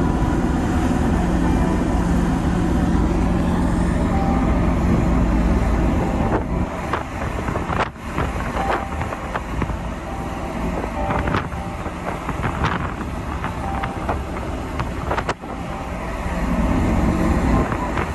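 Low engine rumble with a steady hum and wind on the microphone. About six seconds in it drops away to quieter noise with scattered knocks and clicks, then the rumble swells back near the end.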